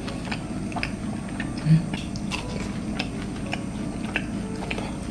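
Close-up chewing of a fried cheese ball: scattered soft crunches and wet mouth clicks, with a brief low hum from the eater about a second and a half in.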